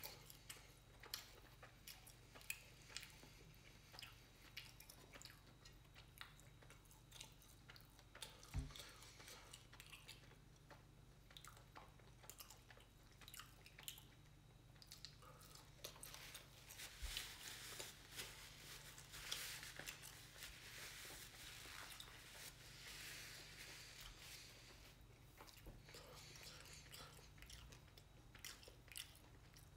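A person eating fried chicken: faint, close chewing and biting with small crunches and wet mouth clicks, a little louder about halfway through.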